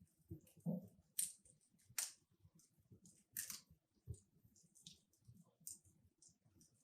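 Logs burning in a wood fireplace, crackling faintly with irregular sharp pops and snaps, the loudest snaps about one, two and three and a half seconds in.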